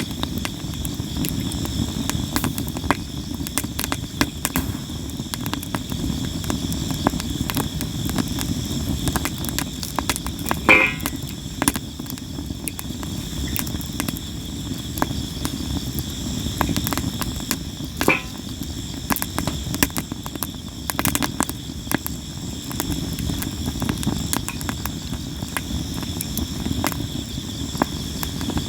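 Campfire of sawara cypress wood crackling and popping constantly over a low rumble of flame, with louder pops about eleven and eighteen seconds in. Insects chirp steadily in the background.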